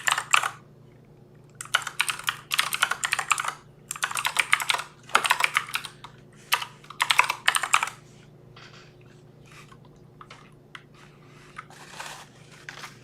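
Typing on a computer keyboard: rapid bursts of keystrokes through the first eight seconds or so, then scattered, lighter clicks.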